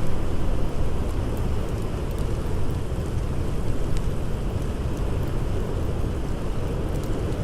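Blizzard wind blowing in a steady low rumble, with a few faint crackles from a campfire.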